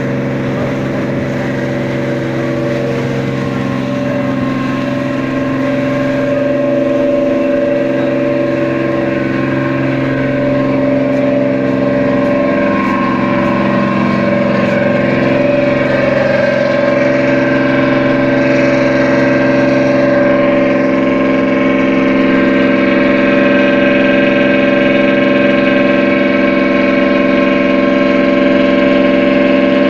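Boat engine running at a steady drone, its pitch dipping briefly a couple of times and the sound growing slightly louder.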